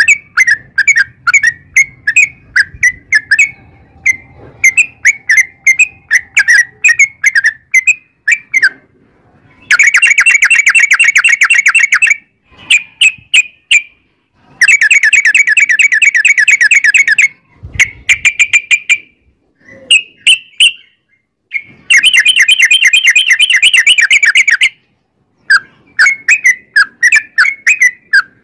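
Yellow-vented bulbul (trucukan) singing: bursts of short bubbly whistled notes, broken three times by a long, fast rattling trill, the 'ropel'.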